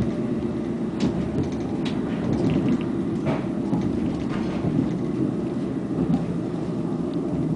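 Running noise of an electric commuter train heard from inside the passenger car: a steady low rumble of wheels on rail, with a few brief sharper clicks and squeaks scattered through it.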